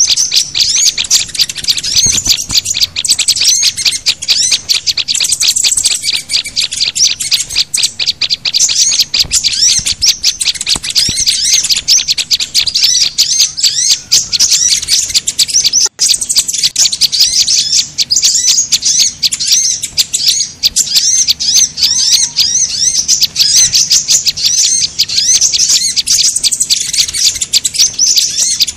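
Mixed bird-lure recording of small songbirds (sunbirds, white-eyes, prinias and flowerpeckers) calling together: a dense, unbroken stream of rapid, high-pitched chirps and twitters. There is a split-second break about halfway through.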